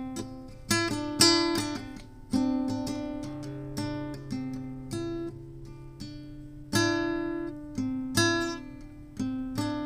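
Acoustic guitar playing an instrumental passage: strummed and plucked chords, each struck sharply and left to ring down.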